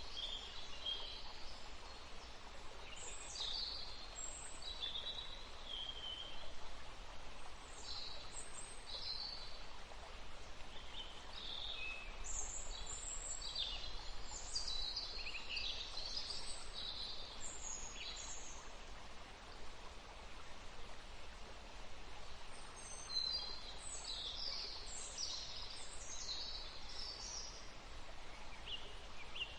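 Several small birds chirping and trilling in short, high bursts that come in clusters, pausing briefly about two-thirds of the way through, over a steady background hiss of outdoor noise.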